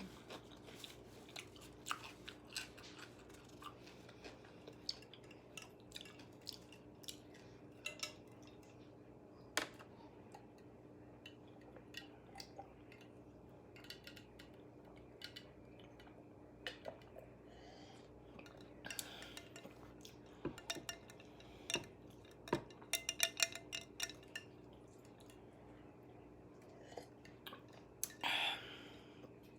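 A person eating KFC food close to the microphone: chewing, with many small crisp clicks and crunches scattered through, and a louder noisy burst of about a second near the end.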